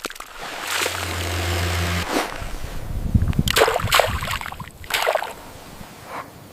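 A low, steady motor hum that stops about two seconds in, followed by several short bursts of rough noise.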